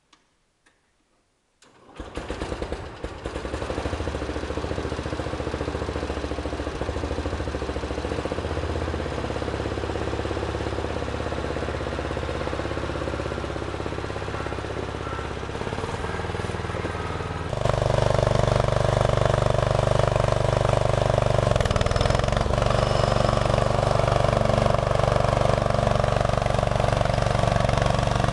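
Cold start of a 1974 Simplicity lawn tractor's 16 hp Briggs & Stratton engine: a couple of faint clicks, then it cranks and catches about two seconds in and runs steadily. About two-thirds of the way through it steps up and runs louder.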